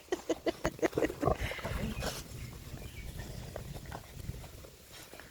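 Dogs growling and yelping in a scuffle between an adult dog and puppies: a rapid run of short pitched cries, about six a second, through the first second or so, then softer low growling.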